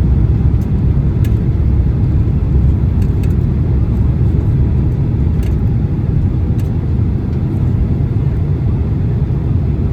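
Steady low rumble of engines and rushing air inside the cabin of a Boeing 767-300 on approach, with a few faint clicks scattered through. The airliner is being shaken by strong, gusty crosswind turbulence.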